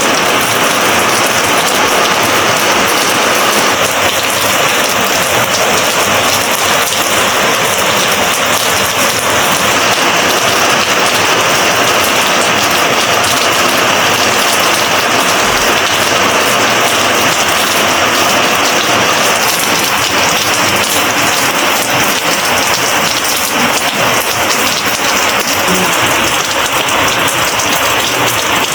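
Steady heavy monsoon rain falling and pattering on surfaces, a dense even hiss with no letup.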